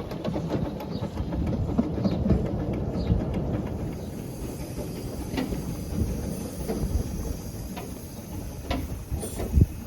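Narrow-gauge steam locomotive moving on the rails: a rumble with clanking and knocking of wheels and rods that eases off after about four seconds, leaving scattered clanks over a thin steady steam hiss.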